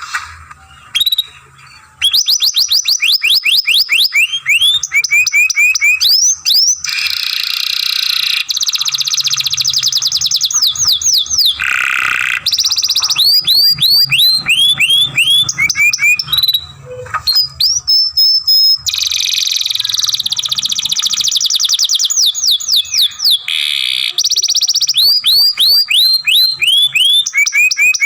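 Young domestic canary singing a long, nearly unbroken song: fast runs of repeated falling whistled notes, rapid trills and short buzzy rolls, with a brief break about a second in.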